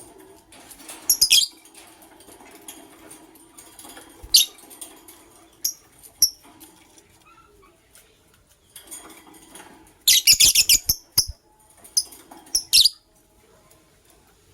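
Lovebirds giving short, shrill chirps in scattered bursts, loudest in a cluster about ten seconds in, with wing flapping and sharp clicks mixed in.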